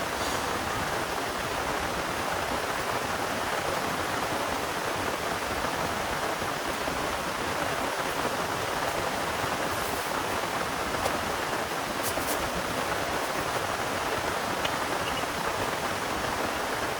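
Heavy rain falling steadily, an even hiss with no letup, with a few faint ticks in the second half.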